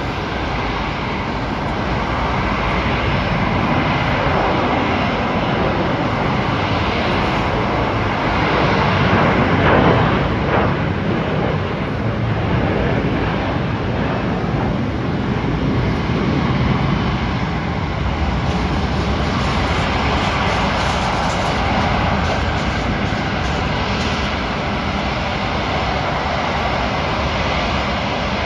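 An airliner's engines running as it passes, loudest about ten seconds in, with the pitch sliding as it goes by.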